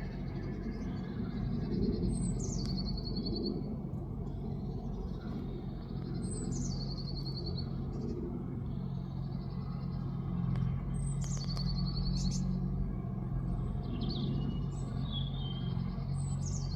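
A small songbird repeating a short song every few seconds, a high note sliding down into a quick trill, with a few other short calls near the end, over a steady low hum.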